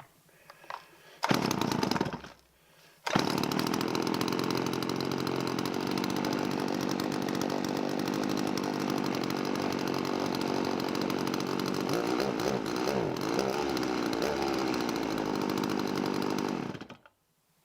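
A Partner P465 chainsaw's two-stroke engine, cold after years unused, runs for about a second, cuts out, then fires again about three seconds in and runs steadily until it is shut off near the end, its pitch wavering a little in the middle. The chain is held still by the engaged chain brake.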